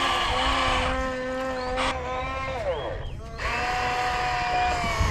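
RC excavator's electric motor whining at a steady pitch while it works, sliding down in pitch as it stops about two and a half seconds in, then starting up again a second later and running steadily before sliding down once more near the end.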